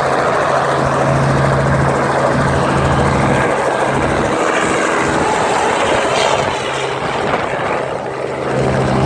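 Tourist helicopter running, its rotor and engine making a loud, steady hum over a broad rush of noise; the low hum fades for several seconds in the middle and comes back near the end.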